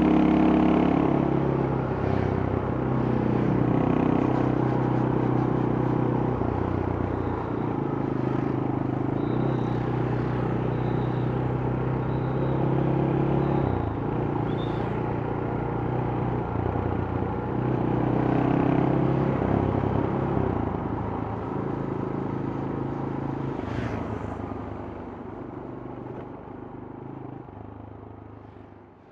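Yamaha Scorpio's single-cylinder four-stroke engine on its stock exhaust, riding along, its note stepping up and down several times as the rider shifts gears and changes speed. The sound fades out near the end.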